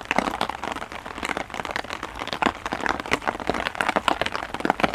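Heavy rain, with a dense, irregular patter of drops striking a small umbrella held over the camera and microphone.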